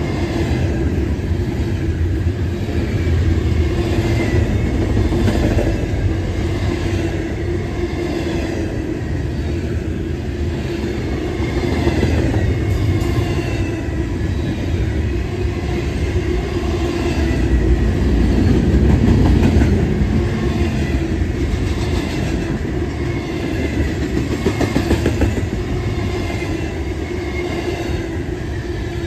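Double-stack intermodal train rolling past: the well cars' wheels click over rail joints in a repeating rhythm over a steady low rumble.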